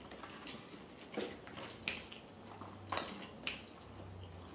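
Faint wet mouth sounds of people chewing sushi, with a few short smacks and clicks about a second apart.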